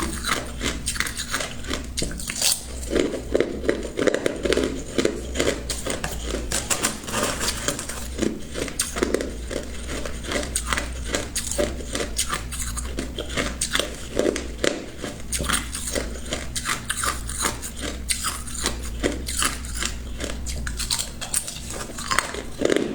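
A person biting and chewing ice: a dense, irregular run of sharp crunches, several a second, with no let-up.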